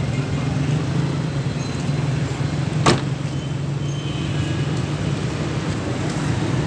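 The 4400 cc V8 engine of a 1984 Toyota Hilux idling steadily, with a single sharp click about three seconds in.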